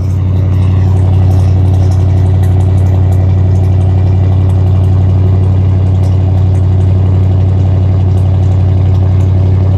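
Exhaust of a 1987 Ford F250's 460 big-block V8 running steadily at fast idle, about 1500 RPM, while warming up after a cold start.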